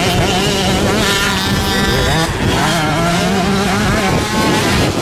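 Several motocross bike engines revving, their pitch rising and falling as they ride the track, overlapping one another.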